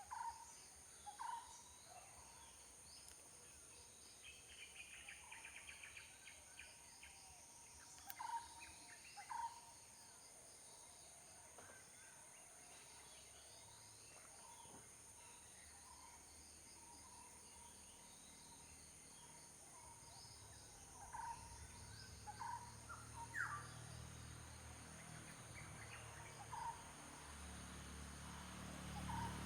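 Faint outdoor ambience: a steady high insect drone with scattered short bird chirps, and a fast trill a few seconds in. A low rumble builds over the last third.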